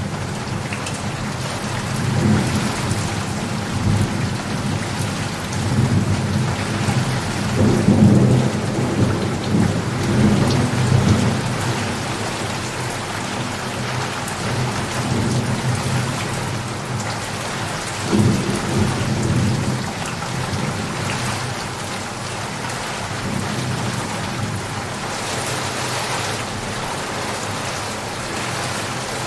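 Steady heavy rain with thunder rumbling through it, the rumbles swelling several times, loudest around a third of the way in and again briefly past the middle.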